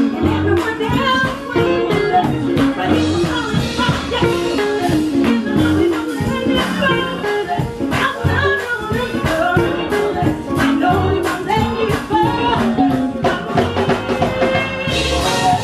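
Live band music from a quartet with bass guitar and drums, playing steadily with a walking low bass line under a melody.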